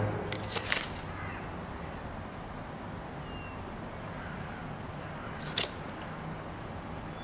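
Quiet room tone with a few faint caw-like bird calls, and one brief rustle about five and a half seconds in.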